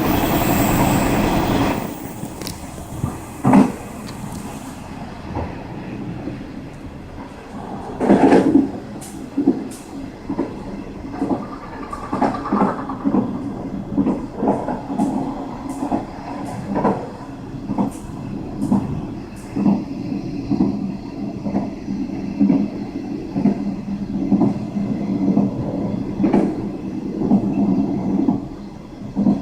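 Passenger train running along the line, its wheels clacking over rail joints in a steady rhythm under a continuous rumble. A louder rush of noise fills the first couple of seconds.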